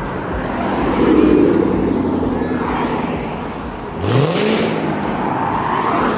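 Car engine running, then revving up with a sharply rising pitch about four seconds in.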